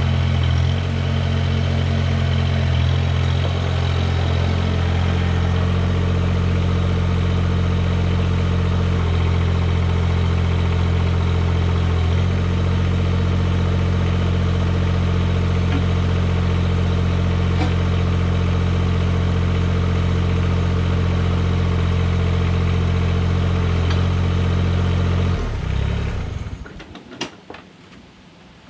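Mahindra eMax 20S HST compact tractor's diesel engine running at a steady speed, then shut off about 26 seconds in. A few light clicks and knocks follow.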